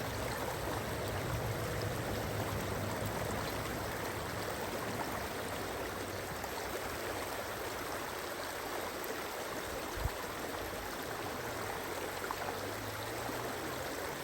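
Steady rushing of running water, like a stream, with a single soft knock about ten seconds in.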